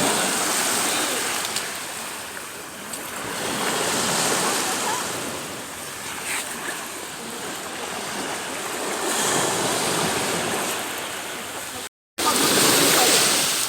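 Sea water washing and wind noise on the microphone, swelling and easing every few seconds, broken by a moment of silence near the end.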